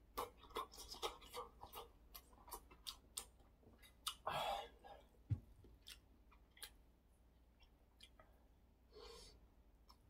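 Soft, close-up chewing of tofu with quick wet mouth clicks and smacks through the first three seconds, then a short noisy rush about four seconds in. A few light, sharp taps follow as wooden chopsticks work in the soup bowl.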